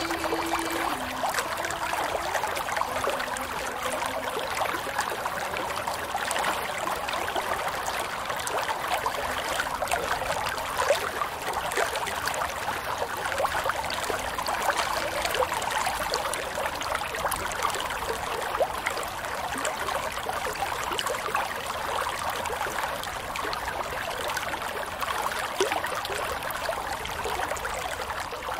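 Running water trickling and splashing steadily, a stream-like flow full of small droplet sounds.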